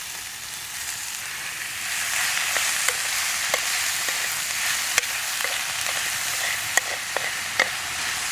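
Ground beef and onions sizzling in butter in a frying pan, the sizzle growing louder about two seconds in, with scattered sharp clicks.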